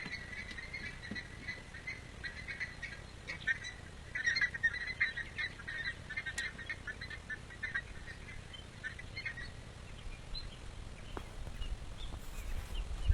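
Birds chirping in short scattered calls, busiest a few seconds in, over a faint low rumble of wind or handling noise that grows louder near the end.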